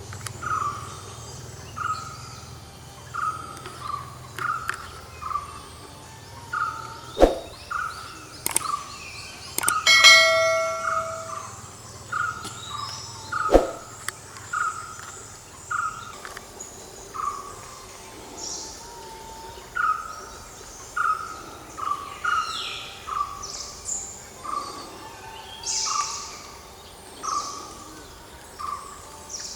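Wild animal calls: a short call repeated steadily about three times every two seconds, with higher chirps over it. Two sharp knocks and, about ten seconds in, a brief ringing, bell-like tone break in.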